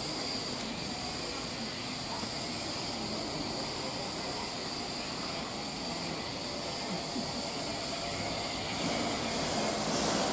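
A heritage railway train running with a steady rumble and hiss, a constant high whine above it, getting a little louder near the end.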